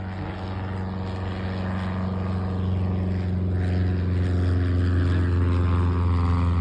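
Cessna light aircraft's piston engine and propeller running with a steady drone, growing louder as it passes.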